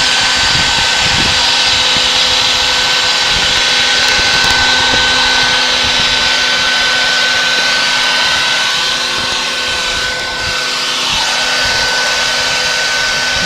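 A vacuum, a bee vacuum, runs steadily with a constant motor whine over a loud rush of air, then shuts off right at the end.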